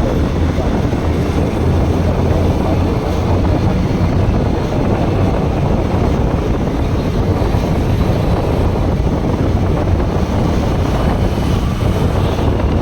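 Riding on a Bajaj Pulsar NS160 motorcycle: a steady rush of wind on the microphone mixed with the single-cylinder engine and tyre noise at cruising speed.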